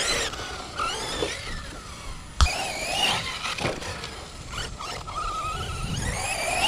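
Electric RC truck's brushless motor whining, its pitch rising and falling with the throttle. There is one sharp knock about two and a half seconds in.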